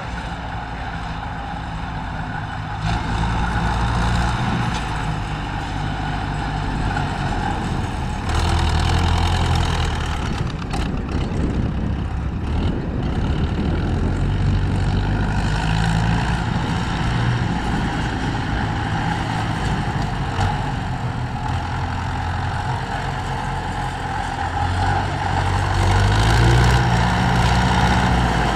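Tractor engines running, their pitch rising and falling as they are revved, getting somewhat louder near the end.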